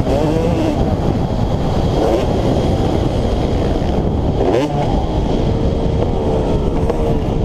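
Motocross dirt bike engine revving up and down under riding, with a sharp drop and climb in pitch about four and a half seconds in, over a heavy low rumble.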